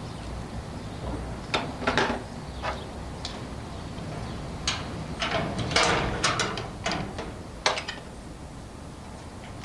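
Sharp metallic clicks and clinks of garage door opener hardware being handled, as the curved door arm is pinned to the slide trolley with a clevis pin and ring fastener. A few single clicks come first, then a quicker run of clinks in the middle.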